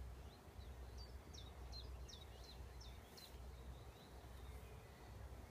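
A small songbird singing a quick run of short, high chirps, about eight notes in two seconds, starting about a second in, over a faint low rumble.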